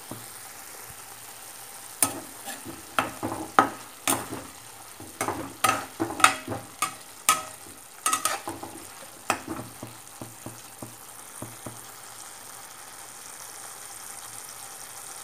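Chicken pieces sizzling in their juices in a kadai while a spatula stirs them. The spatula knocks and scrapes against the pan in quick sharp clicks from about two seconds in until about eleven seconds in, and the sizzle carries on steadily underneath.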